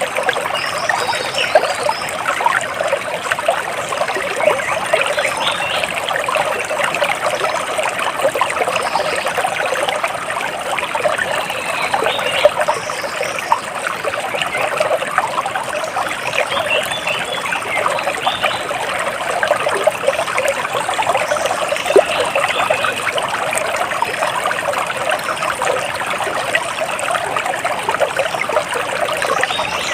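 Water splashing and trickling steadily, like a small stream running over stones, with faint short bird chirps now and then above it.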